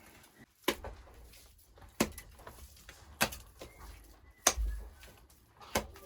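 Five sharp knocks at a steady pace, about one every second and a quarter, each with a short ring after it.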